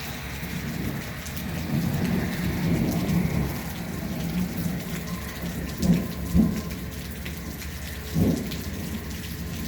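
Steady rain falling, with thunder rumbling low and swelling a couple of seconds in. Three short low thuds follow, two close together about six seconds in and one near eight seconds.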